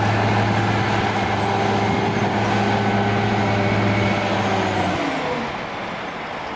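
Heavy vehicle engine running at a steady speed, then slowing about five seconds in, its pitch falling as it quiets.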